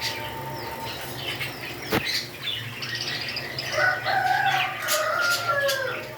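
Pet parrots chirping in short, quick calls, with a sharp click about two seconds in. From about the middle to near the end a louder, longer whistled call with several pitches at once wavers and falls away.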